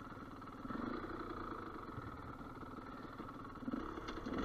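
Gas Gas EC200 two-stroke enduro motorcycle engine running at low revs, picking up slightly about a second in and starting to rev up near the end.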